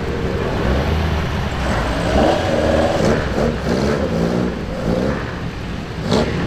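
Several classic racing car engines running at low speed, with throttle blips that rise and fall in pitch again and again, and a short sharp crack near the end.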